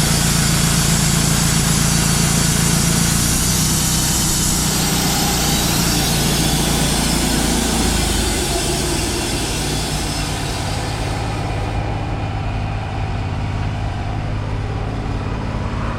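Portable bandsaw sawmill running, its engine steady under load while an old blade cuts through a black walnut log with a high hiss. The cutting hiss fades away about eleven seconds in, leaving the engine running.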